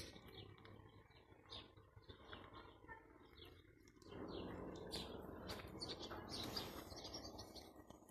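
Small birds chirping over and over in short high calls. A louder, steady rushing noise comes in about halfway through.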